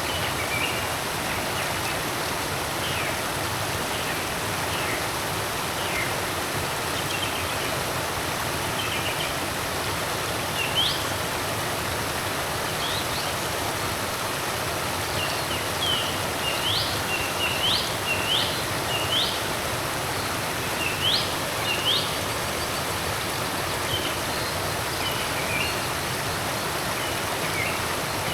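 Forest creek water flowing steadily, with birds giving short rising chirps over it, coming in quick runs near the middle.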